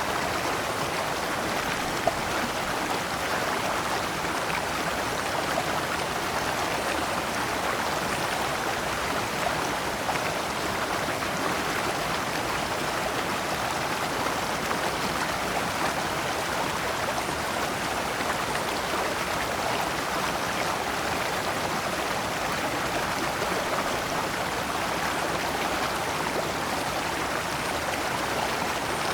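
Shallow stream running over large stones in small cascades: a steady, even rush and babble of water, with one brief click about two seconds in.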